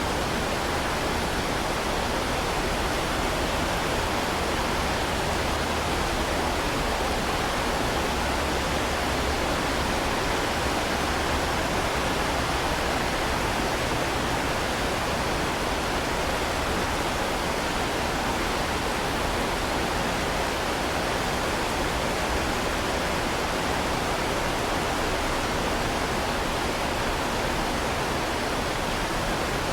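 Heavy rain falling as a steady, even hiss that does not change.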